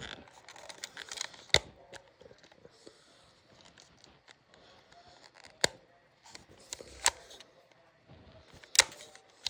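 A plastic toy and its box being handled: light rustling, broken by four sharp clicks spread across several seconds.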